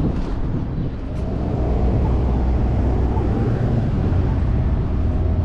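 Steady low rumble of city street traffic, with a low vehicle engine drone that grows louder in the second half.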